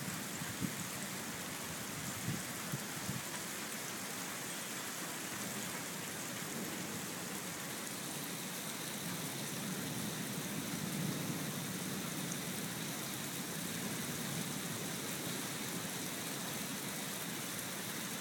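Steady rain falling, an even hiss of rain on surfaces, with a few sharper drips or taps in the first three seconds.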